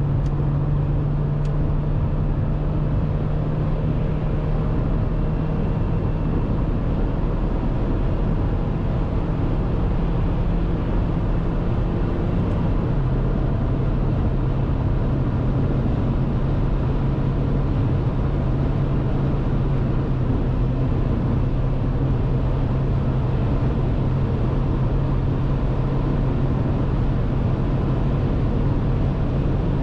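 Dacia Duster's 1.6-litre four-cylinder naturally aspirated petrol engine running at steady, fairly high revs under way, with a constant hum over road and wind noise. The engine note steps down slightly about halfway through.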